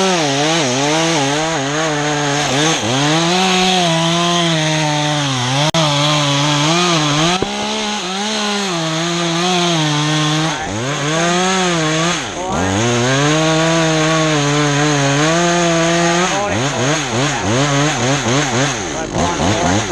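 Two-stroke chainsaw running hard while cutting pine. Its pitch sags as the chain bogs in the wood and climbs back several times, then wavers quickly near the end.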